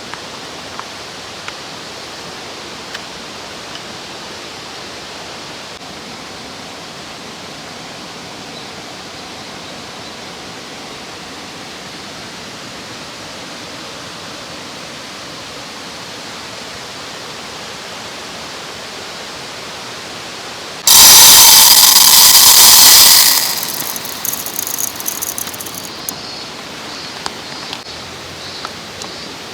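Steady rushing of a mountain stream. About two-thirds of the way through, a very loud rushing blast lasts about two seconds, then trails off into a few seconds of crackling before the stream noise resumes.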